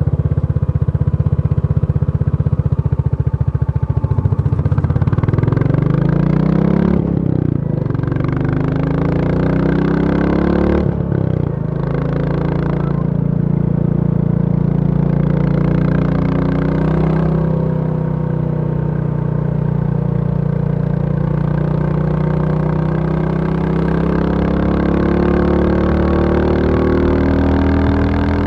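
Royal Enfield Bullet 350's single-cylinder four-stroke engine, first idling with an even low thump, then revved with a rise in pitch and a sharp break about seven seconds in and again about eleven seconds in, after which it runs at a steady, higher speed that creeps slowly upward.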